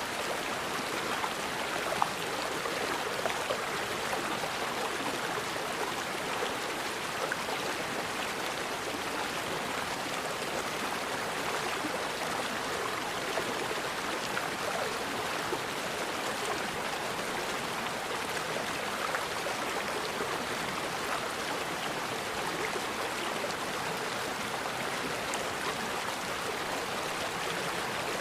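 Forest river flowing steadily: an even rushing of water with a few brief sharper splashes, the loudest about two seconds in.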